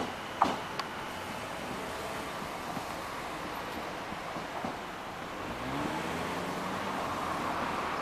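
Enshū Railway electric train pulling away and fading into the distance, with a few sharp clacks about half a second in over a steady outdoor rumble. A low rising hum swells slightly about six seconds in.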